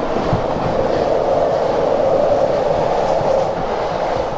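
Steady running noise of an electric commuter train, heard from inside the carriage, while another commuter train passes close alongside on the next track. The noise swells a little through the middle.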